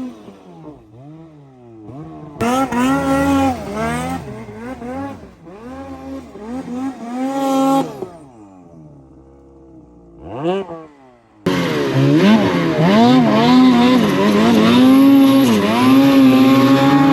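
Snowmobile engines revving up and down over and over, the pitch climbing and dropping with each burst of throttle. About ten seconds in, a quick rising whine; then a sudden jump to loud, sustained revving.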